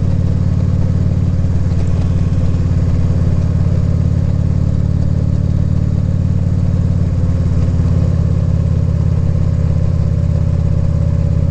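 A 2014 Harley-Davidson Ultra Classic Limited's V-twin engine running at a steady, unchanging speed.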